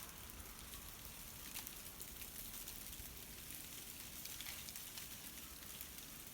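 Ice-coated tree branches swaying in a breeze, with a dense, steady crackling and clinking of many small ice cracks and falling ice bits.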